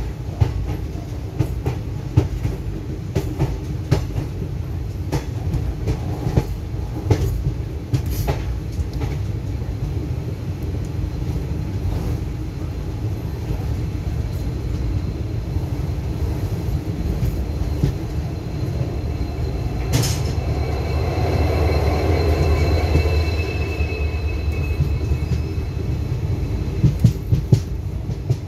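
Passenger train coach heard from its open doorway while moving, with a steady rumble of wheels on track and sharp clacks as the wheels cross rail joints and points. About two-thirds of the way through, a high wheel squeal comes in for a few seconds over a slightly louder rumble.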